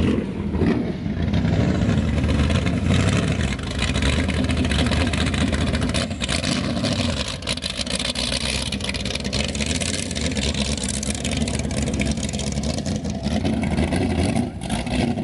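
A car engine running at low speed, with the steady rumble of a vehicle moving slowly nearby.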